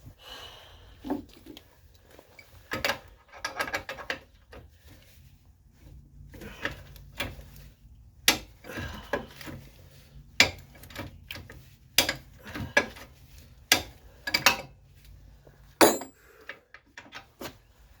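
Hand tools working on suspension bolts: irregular metallic clicks and knocks with a ratchet-like character, several sharper clanks standing out.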